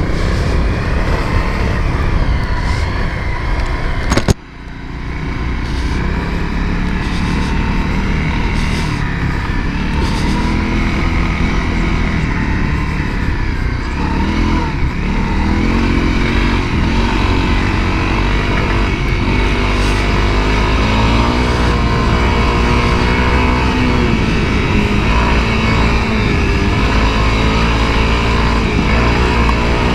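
Honda CRF250L's single-cylinder four-stroke engine running under way, its pitch rising and falling with the throttle. There is a sharp knock about four seconds in, after which the level dips briefly.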